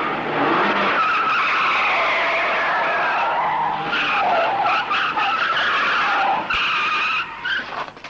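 Car tyres squealing in a long skid, a wavering high screech that breaks off briefly near the end and then dies away.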